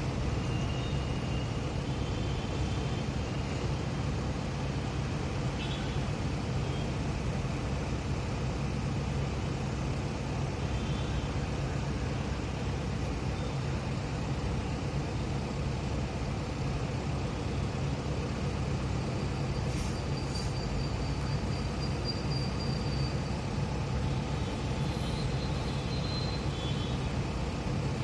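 JCB earthmover's diesel engine running steadily at a constant pitch while digging, with a few faint, brief high-pitched squeaks over it.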